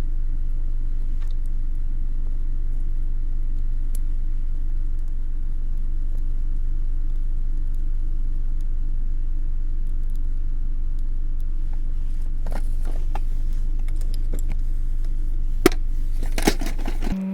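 A loud, steady low buzzing drone. From about twelve seconds in it is joined by scattered clicks and knocks, with two sharper knocks near the end, and then the drone cuts off suddenly.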